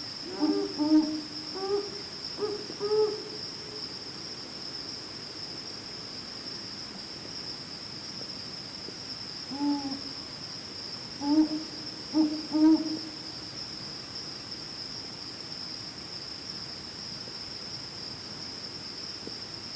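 Omani owl pair, male and female, duetting in soft low hoots: one series at the start and another about ten seconds in. A steady high insect trill runs underneath.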